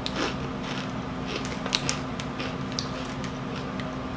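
Close-miked chewing of Doritos tortilla chips: scattered small crunches and mouth clicks over a steady low hum.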